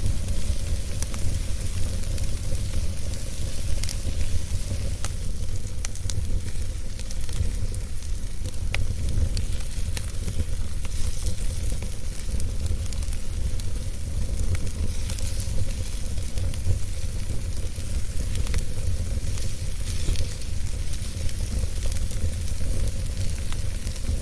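Wood fire burning in a fireplace: a steady low rumble and hiss with frequent small, sharp crackles and pops scattered irregularly throughout.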